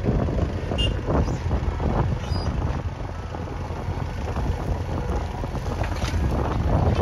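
JCB backhoe loader's diesel engine running with a steady low rumble, with a few sharp knocks about one, two and six seconds in.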